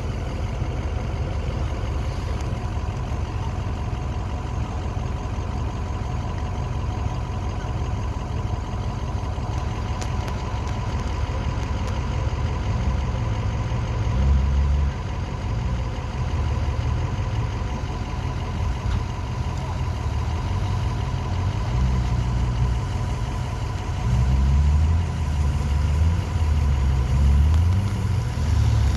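An off-road car's engine running at low speed, with a heavy low rumble and a steady thin whine. The rumble swells louder about halfway through and again near the end, as the engine is worked harder.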